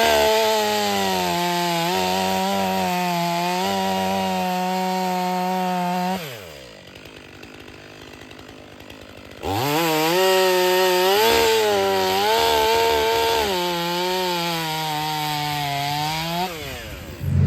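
Stihl 500i chainsaw cutting firewood rounds at full throttle, its pitch sagging and recovering under load. About six seconds in it drops back to idle for about three seconds, then revs up again for a second cut and falls back to idle near the end.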